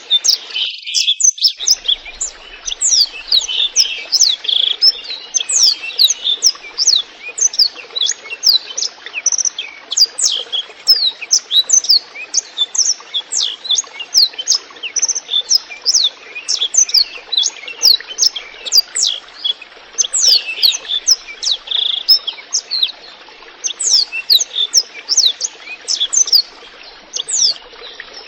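Blackthroat (black-throated canary) singing continuously in long, fast runs of high notes that sweep downward, over a steady trickle of running water.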